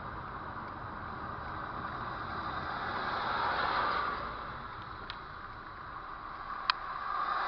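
Steady running noise of a car on the road, swelling slightly about halfway through, with a sharp click near the end.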